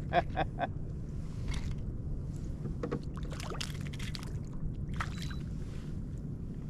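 Scattered small splashes and clicks as a hooked trout is worked beside a fishing kayak, over a steady low hum.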